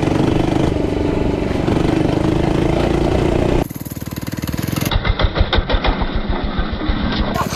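Small 99cc four-stroke mini bike engine running hard under throttle. After a cut about three and a half seconds in, it is heard at lower revs as an even putter of separate pulses.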